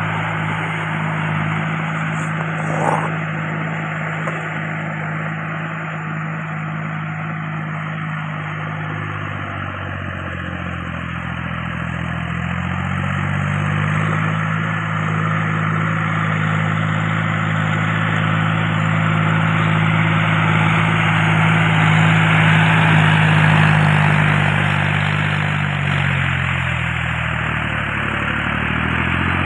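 Tractor engine running steadily, speeding up about halfway through, holding the higher speed, then slowing again near the end. A brief click about three seconds in.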